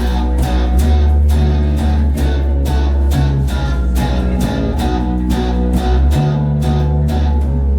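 Live band playing an instrumental opening after a count-in: strummed guitar over a heavy bass line and a steady drum beat. The playing stops abruptly at the end, a false start.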